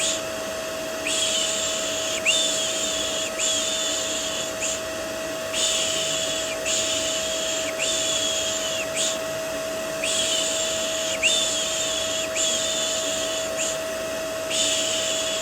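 Rhythmic 'shh' shushing sounds for soothing a baby, about one a second in sets of four with a short pause between sets. Underneath runs steady vacuum cleaner white noise with a constant motor whine.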